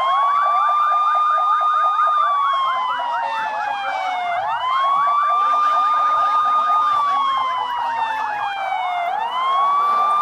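A siren wailing in slow cycles, each rising quickly, holding, then falling slowly, about every four and a half seconds, with a faster sweeping tone layered over it.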